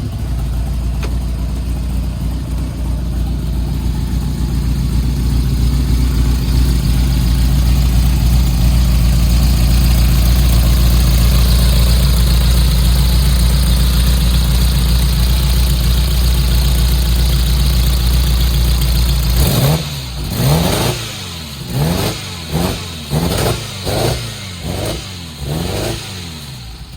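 Ferrari 308's V8 idling steadily just after a cold start. About twenty seconds in, the throttle is blipped in a quick series of short revs, each rising and falling away.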